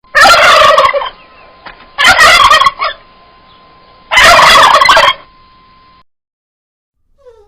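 Turkey gobbling three times, each gobble a rapid warbling call about a second long, the last ending about five seconds in.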